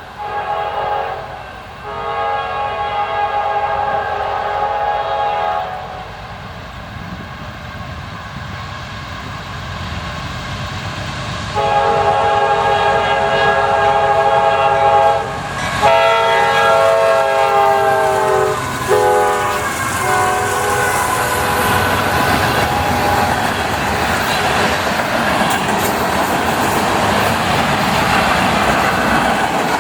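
Air horn of a CSX diesel freight train sounding a chord in several long blasts and a shorter final one, growing louder as the train approaches. Then the locomotives and freight cars roll past with a steady rumble and wheel clatter on the rails.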